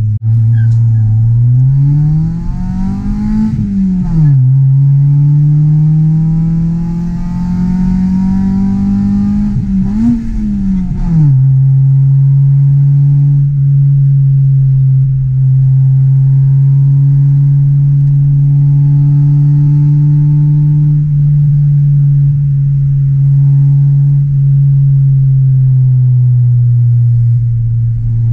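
Honda Del Sol's 1.6-litre VTEC four-cylinder engine and exhaust, heard from inside the cabin. It revs up twice under acceleration, its pitch falling sharply at each upshift about 4 and 11 seconds in. After that it holds a steady drone while cruising.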